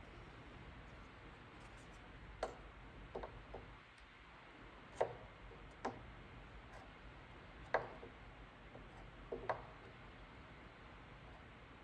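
Scattered light clicks and taps, about eight at irregular intervals with two close together near the end, over a low steady hum. They come from hand work on a plastic ATV body panel being heat-repaired.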